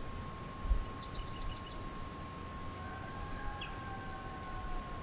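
A small bird sings a rapid, high twittering trill for about three seconds, ending on a lower note. A low wind rumble lies underneath, with a soft thump about a second in.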